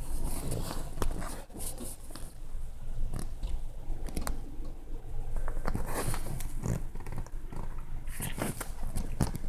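A dog making noises, with scattered irregular knocks and scuffs.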